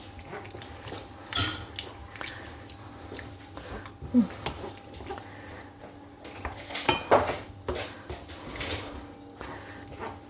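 A spoon clinking and scraping irregularly against a frying pan as thick yoghurt is spooned into the sauce and stirred in, with the sharpest knocks about four and seven seconds in. A faint steady hum runs underneath.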